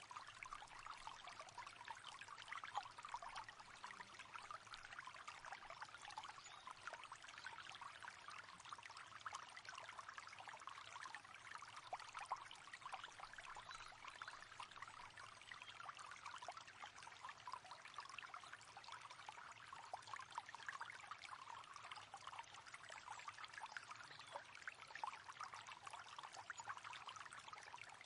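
A river flowing, a steady, quiet babble and trickle of water over stones.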